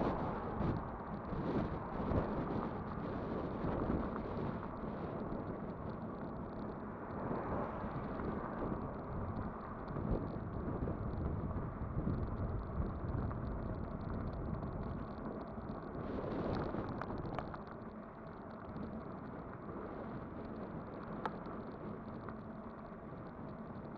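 Ride noise from a Kugoo Kirin V5 electric bike on the move: a steady rumble from the tyres and frame, with knocks over bumps in the first few seconds and a single sharp click about 21 seconds in.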